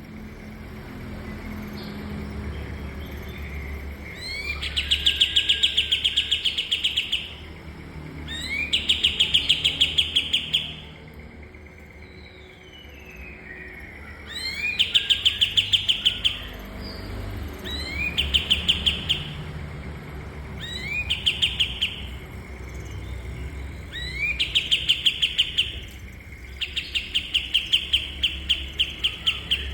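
Kapas tembak songbird repeating a rapid, high chattering trill in about seven bursts of one to three seconds each. Each burst opens with a quick rising sweep, and the bursts are separated by short pauses.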